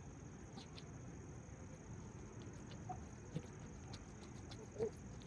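Insects trilling in one steady, faint high note, with a few small ticks and a soft thump near the end.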